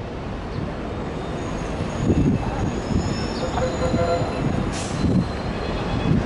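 Container freight train hauled by a GT22 diesel locomotive rounding a curve, its wheels squealing in several thin high tones that hold and slide over the low rumble of wheels and engine. There is a brief hiss about five seconds in.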